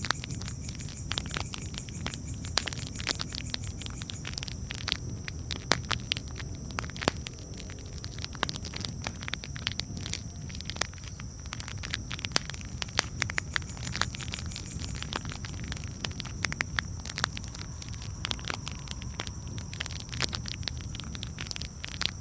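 Campfire crackling, with frequent irregular sharp pops and snaps from the burning wood over a low steady rumble.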